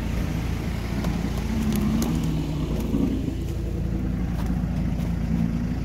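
Off-road SUV engine idling with a steady low hum.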